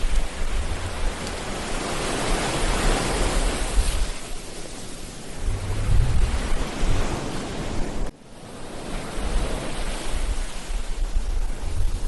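Ocean surf breaking and washing onto a beach, swelling and easing in long surges, with wind buffeting the microphone in low rumbles. The sound cuts out sharply for a moment about eight seconds in, then builds again.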